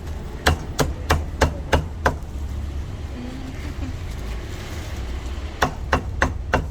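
A cleaver chopping roast meat on a chopping board: six quick, sharp chops at about three a second, a pause, then four more chops near the end, over a low steady rumble of traffic.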